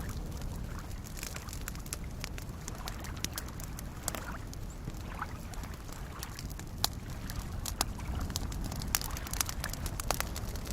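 Wood campfire crackling, with sharp pops that come more often and louder in the second half, over soft lake waves lapping as a low, steady wash.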